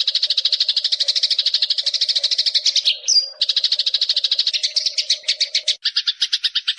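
Eurasian tree sparrow (burung gereja) calling in a fast, continuous trill of rapid chirps, about a dozen a second. It breaks once, about three seconds in, for a single sharp rising note. Near the end it changes to a harsher, lower chatter.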